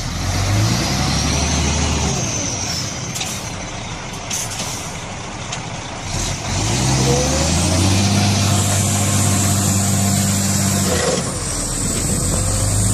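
Heavy truck's engine revving hard under load: it climbs in pitch and holds, drops back about eleven seconds in, then climbs again, with a high hiss rising along with it.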